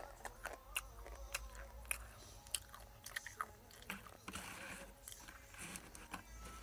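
A person chewing crunchy food close to the microphone, with a sharp crunch roughly every half second.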